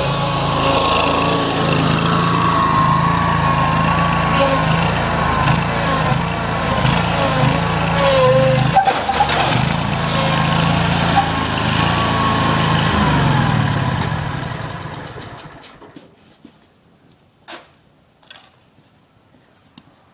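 Riding lawn mower engine running loud and steady, with a wavering whine over it, then dying away about fourteen to sixteen seconds in. A few faint knocks follow near the end.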